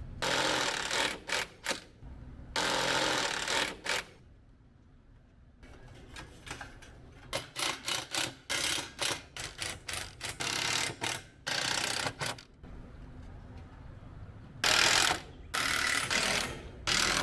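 Construction tool work on roofing-scrap fascia: a string of short, harsh mechanical bursts, two longer ones about a second each near the start, then a quick run of brief ones, and two more near the end.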